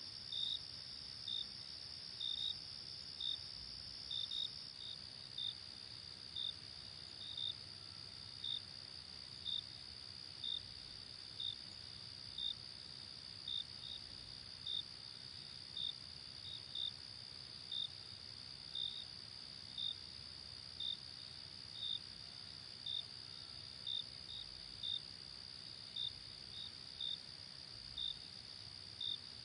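Crickets chirping: a steady high trill with separate short chirps about once a second, some in pairs, over a faint hiss.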